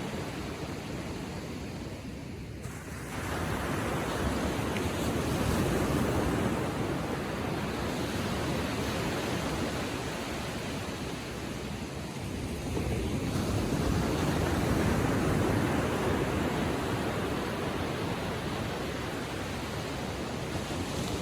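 Small ocean waves washing onto a sandy beach, a steady rushing wash that swells twice as waves break and run up the shore, with some wind on the microphone.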